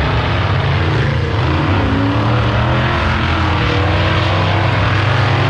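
Monster truck engine running loud and steady, its low pitch wavering only slightly.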